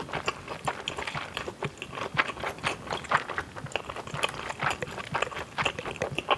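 Close-miked chewing of a mouthful of food: irregular wet mouth clicks, several a second.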